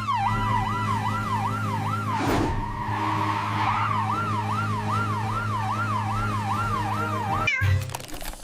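Emergency vehicle siren wailing up and down about two and a half times a second over a steady low hum. About two seconds in there is a whoosh and the siren holds one tone for about a second and a half before the wail resumes. It cuts off shortly before the end.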